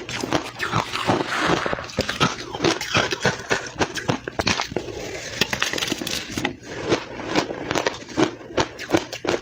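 Soft, powdery crushed ice being bitten and chewed fast, close to the microphone: a dense run of crunches and crackles, about two to three sharper bites a second.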